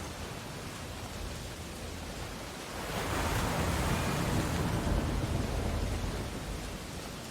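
Ocean waves on a shore: a steady wash of surf that swells into a louder surge about three seconds in, then eases off.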